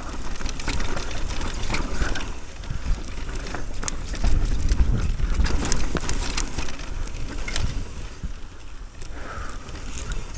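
Mountain bike descending a rocky dirt trail: tyres crunching over dirt and rocks, with the chain and frame clattering in many quick knocks and wind rumbling on the microphone.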